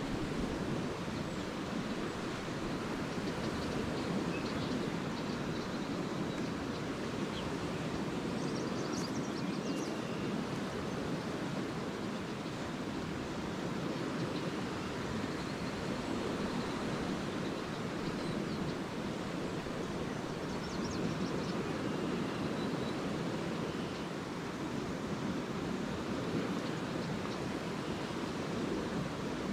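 Lake waves washing steadily onto the beach, with faint twittering of swallows now and then.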